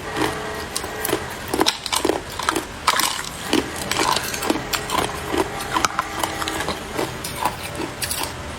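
Ice being bitten and chewed in the mouth, heard close up: a continuous run of sharp, irregular crunches and crackles, a couple of strong ones a second.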